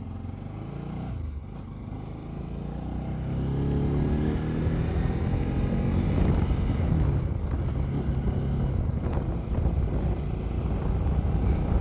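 Bajaj Pulsar NS200 motorcycle's single-cylinder engine pulling away and accelerating, its note rising and getting louder over the first few seconds, then running steadily at speed.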